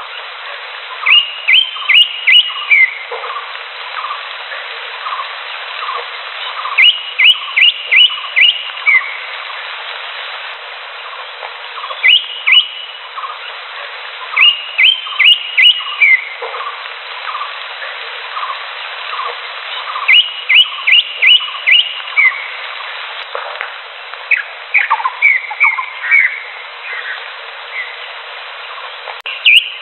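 Green leafbird (cucak hijau) singing: bursts of three to five sharp whistled notes, each slurring downward, repeated every few seconds. Beneath them runs a steady background of faint, regularly spaced pips.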